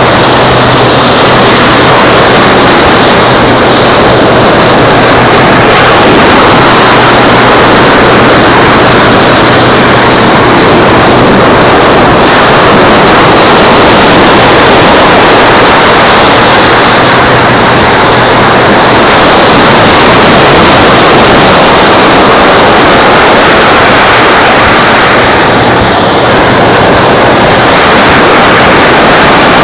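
Very loud, steady rushing of surf and wind on a beach, near the limit of the recording, with a faint low hum underneath.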